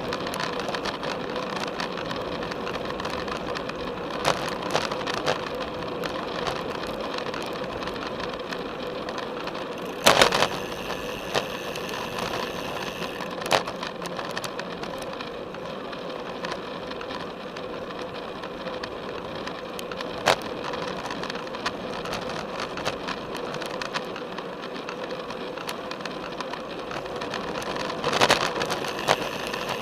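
Road bike riding along a paved path, heard through a camera strapped to the frame's top tube: steady tyre, drivetrain and wind noise with a faint hum, broken by sharp knocks and rattles over bumps, the loudest about ten seconds in and a short cluster near the end.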